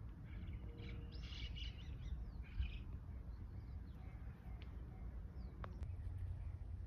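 Japanese bush warbler (uguisu) singing, one song phrase of rapid notes in the first three seconds, followed by a few faint thin calls, over a steady low rumble.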